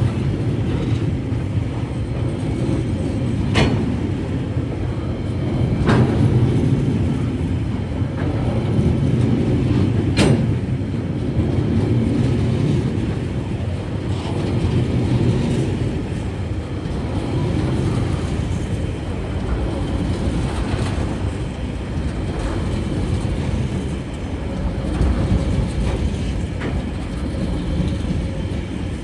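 A Tasrail diesel freight train rolling past with a steady low rumble, broken by a few sharp clicks in the first ten seconds.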